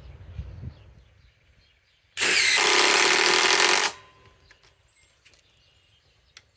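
Cordless impact driver hammering a 5/16 by 3 inch lag screw into wood in one steady run of under two seconds, about two seconds in.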